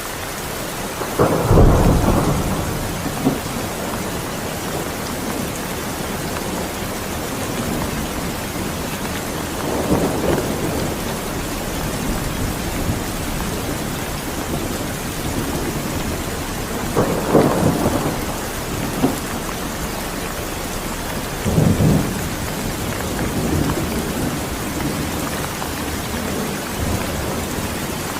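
Steady rain with several rolls of thunder. The loudest rumble comes about a second and a half in, and three more follow through the rest of the stretch.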